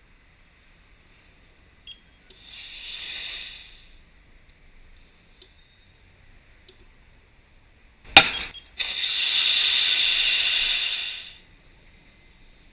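Two bursts of hissing, the first about a second and a half long and the second about two and a half seconds long, with a sharp loud snap just before the second.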